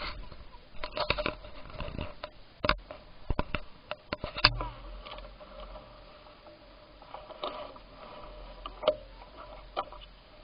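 Irregular sharp clicks and knocks of a bicycle rattling as it rides, many in the first half and fewer after, over a faint steady hum.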